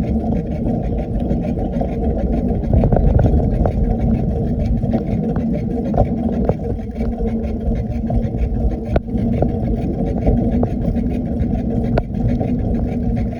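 Steady wind rumble on a phone microphone while riding a bicycle, with a few sharp knocks from bumps along the way.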